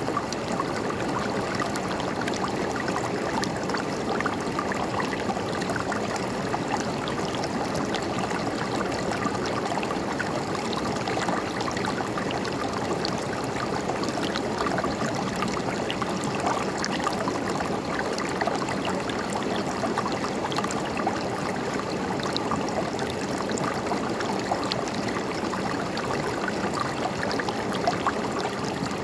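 River water flowing steadily, a continuous babble of running water with many small splashes and trickles.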